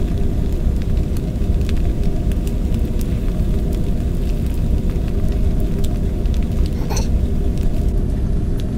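Egg omelet cooking in a cast iron skillet: scattered faint sizzling crackles and pops over a steady low rumble, with one slightly louder pop about seven seconds in.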